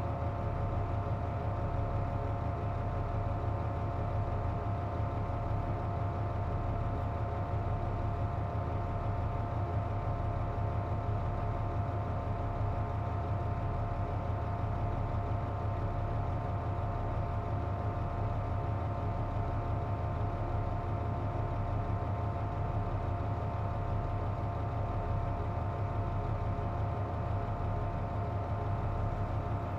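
Inside a Hino Rainbow KC-JP250NTN route bus: a steady low engine drone with several steady high whining tones over it, the abnormal noise this bus makes when its air conditioning is running.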